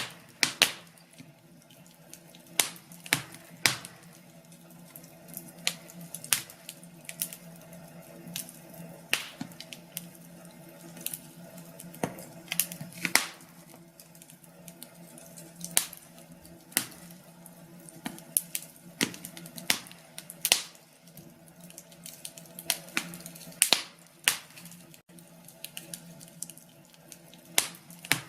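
Wood fire in a fireplace crackling, with irregular sharp pops and snaps of varying loudness over a faint steady hum.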